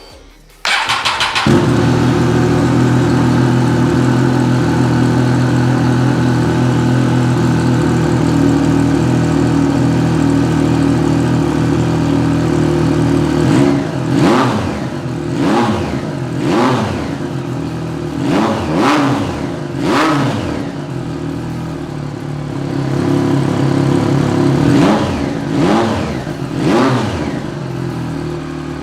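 A 2019 Triumph Street Triple R's 765 cc inline three-cylinder engine cranks briefly on the starter and catches about a second in, then idles steadily. From about halfway it is revved in a series of quick throttle blips, dropping back to idle between them, and it settles to idle again near the end.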